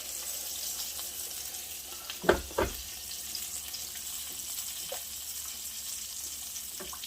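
Oil, garlic and tomato paste sizzling steadily in a hot pan with a little water just added. Two sharp knocks come a little over two seconds in.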